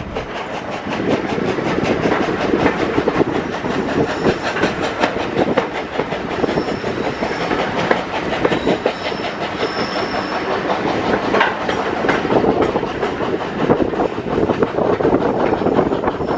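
A British Railways Mk1 passenger coach running along the line behind a steam locomotive, heard from aboard: a continuous rumble with rapid rattling and clicking of wheels on the rails.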